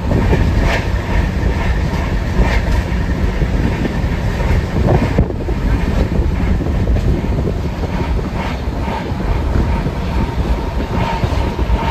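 Indian Railways passenger train running, heard from aboard: a loud, steady rumble with the irregular clatter of wheels over the rails.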